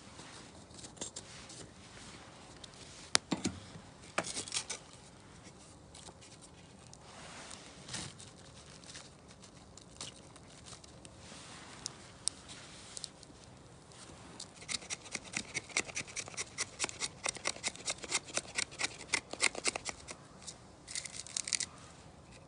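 Hand work with tools: scattered knocks and scrapes, then a run of quick, even scraping strokes, about five a second, for several seconds.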